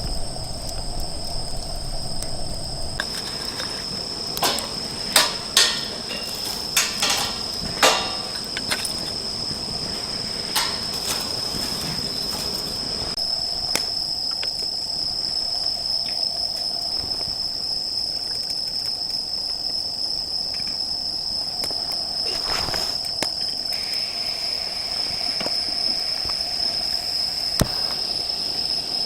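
Field crickets trilling steadily in a high, unbroken tone. A handful of sharp cracks stand out between about four and eight seconds in, with another single crack a little after twenty-two seconds.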